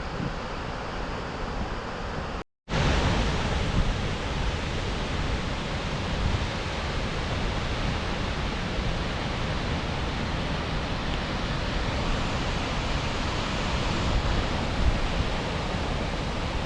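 Steady roar of Skógafoss, a large waterfall, as a rushing wash of falling water. It drops out briefly about 2.5 s in and returns louder.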